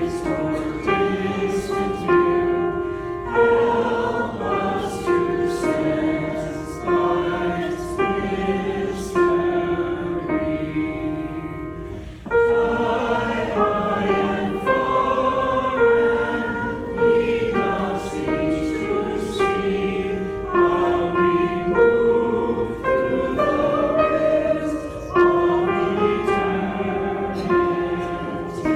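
A group of voices singing a slow hymn together, with a short break about twelve seconds in before the next phrase begins.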